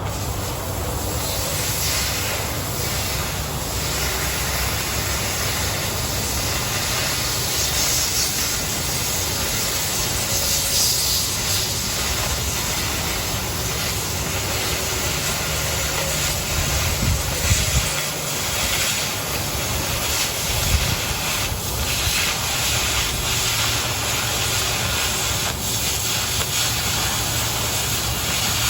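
Oxy-fuel cutting torch cutting through 1/4 inch plate: a steady hiss of the gas jet and burning metal, with a few brief pops about two thirds of the way through.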